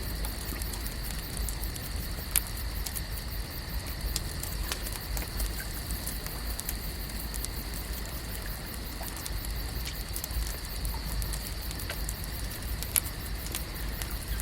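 Lake ambience: a steady low rumble under a constant high hum, with many small, scattered crackling clicks throughout and two louder pops, one about two and a half seconds in and one near the end.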